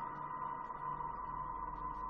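Voyager space recording of Uranus's rings turned into sound: a steady, unbroken drone centred on one mid-high pitch, with a fainter higher tone and a low hum under a hiss.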